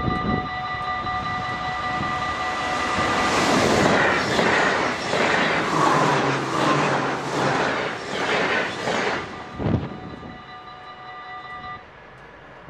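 Passenger train passing over a railway level crossing, its wheels clattering over the rails in a quick regular rhythm, loudest in the middle of the pass and fading away. The crossing's warning bell rings steadily throughout and stops near the end.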